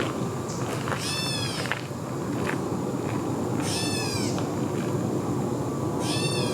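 Gray catbird giving its cat-like mew call three times, each mew under a second long and slurring in pitch: about a second in, around four seconds, and near the end.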